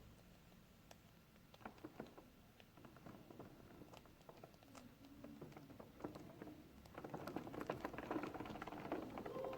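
Faint scattered clicking and pattering of budgerigars, growing busier and louder about seven seconds in.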